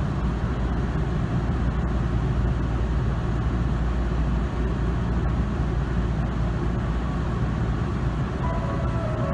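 Steady low rumble and hiss of a stationary commuter train heard from inside the car, its onboard equipment running while it waits at the platform. A few faint steady tones come in near the end.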